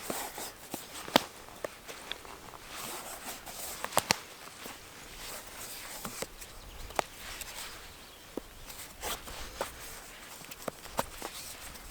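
Irregular sharp snaps and light crunches, most likely footsteps on twiggy forest ground, over a faint steady outdoor hiss.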